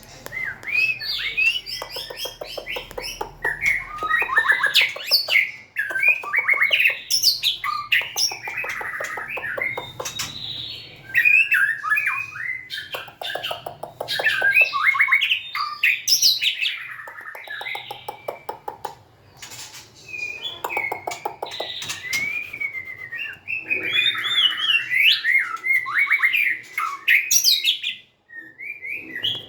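White-rumped shama singing a loud, varied song of whistled glides and rapid trills, almost without pause, with a short break near the end.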